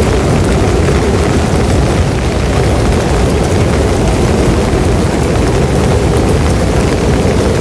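Loud, steady heavy rain with a deep rumbling undertone.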